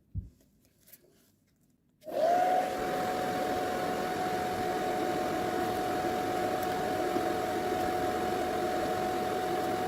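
Hooded hair dryer switched on about two seconds in: its fan spins up within a moment, the hum rising to a steady pitch, then blows steadily with an even whirring noise.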